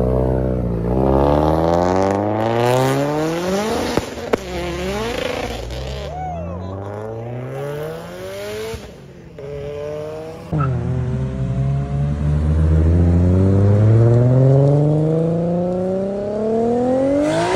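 Performance car engine accelerating hard, its pitch climbing in long pulls. The revs drop sharply at gear changes about four and ten seconds in, and it is loudest during the final pull.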